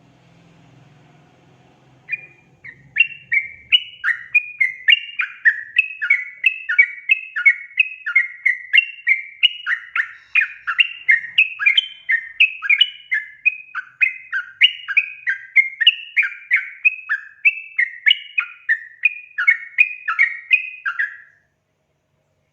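Yellow-vented bulbul (trucukan) singing a lively, unbroken chatter of bubbly, warbling notes, about two to three a second. It starts about two seconds in and cuts off abruptly near the end.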